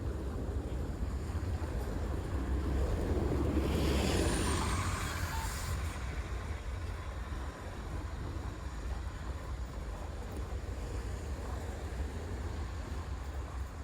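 A motor vehicle passes on the street, its noise swelling to a peak about four seconds in and fading away by about six seconds, over a steady low rumble of traffic and wind.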